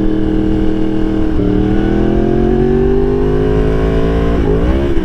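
Yamaha R1 inline-four engine pulling under acceleration: a steady note, an upshift about a second and a half in, then revs climbing steadily. Near the end the revs flare up and drop back sharply as a missed shift lands in neutral.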